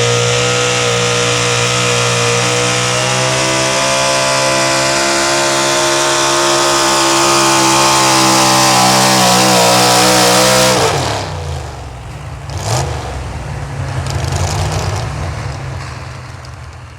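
Pulling truck's engine held at full throttle under load down the track, its pitch wavering slightly near the end of the pull. About 11 seconds in it lets off suddenly and falls to a low rumble, with one sharp pop a couple of seconds later, then fades out.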